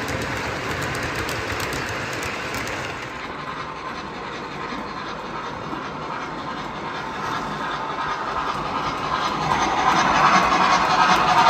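MTH O-gauge model train running on the layout track, a steady rolling clatter that grows louder toward the end as the train comes closer.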